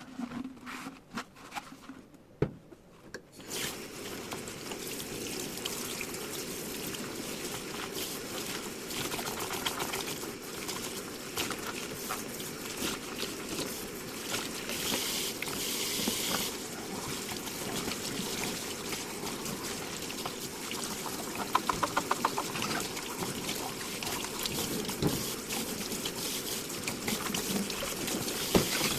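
A few clinks, then a kitchen tap comes on about three and a half seconds in and water runs steadily into the sink while dishes are washed. Scattered clinks and knocks of dishware sound through the running water, with a quick run of ticks a little past the middle.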